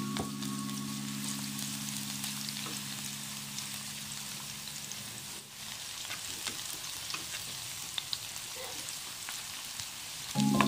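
Sliced chilies and shallots sizzling in hot oil in a frying pan, with small scrapes and clicks of a spatula stirring them in the second half. Soft background music plays over the first half and stops about halfway.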